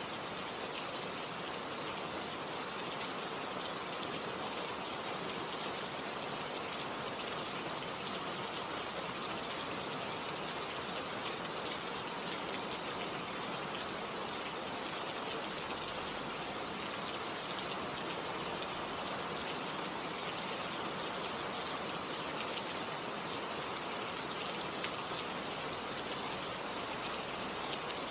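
Steady rain falling, an even hiss of many drops with faint scattered drip ticks.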